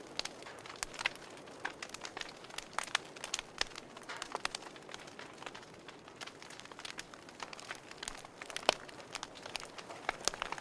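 Wood fire burning in a fireplace, crackling: irregular sharp pops and snaps over a soft steady hiss, with one louder pop near the end.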